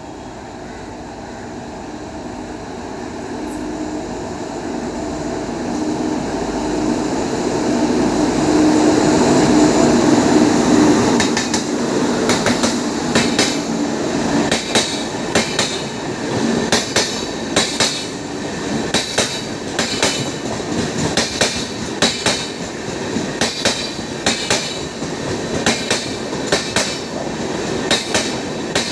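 Mumbai Mail express passing slowly: a rumble that swells as the train nears, then a steady run of wheel clicks over the rail joints, the 'tadaka tadaka' track sound, from about eleven seconds in.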